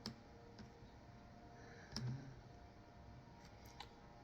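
Near silence: quiet room tone with a few faint clicks, near the start and again near the end.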